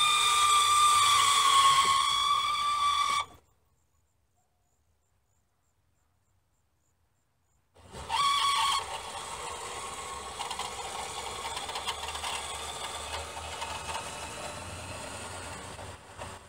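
A 1999 Mitsubishi Eclipse Spyder's power convertible top mechanism on the driver's side screeching: a loud, high, steady squeal with several tones that cuts off suddenly about three seconds in. After a silent gap it squeals again briefly at about eight seconds, then runs on with a quieter whir. The owner suspects a broken pin in the top's gear drive mechanism.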